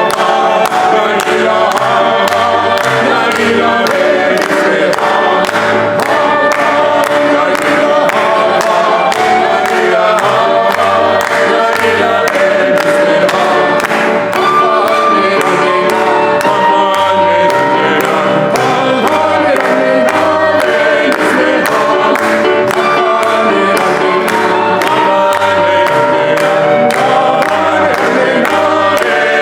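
Vocal ensemble singing in several-part harmony, with a moving bass line under it and a steady beat.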